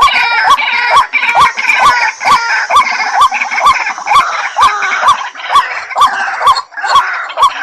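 White-breasted waterhen calling over and over: a short rising-and-falling note repeated about twice a second, each starting with a sharp click, over a dense layer of higher chattering notes. This is a lure call recording of the kind used to draw waterhens in.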